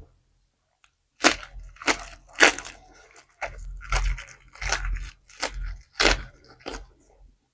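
Crunchy food being chewed, about nine loud crunches at a steady chewing pace starting about a second in.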